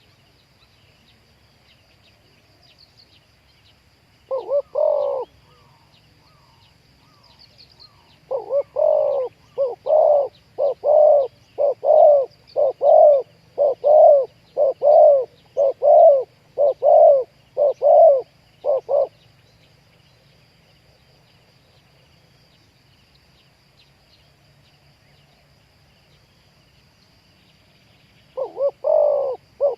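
Spotted doves cooing: a short phrase about four seconds in, then a long, even run of about a dozen coos at roughly one a second, and another run beginning near the end.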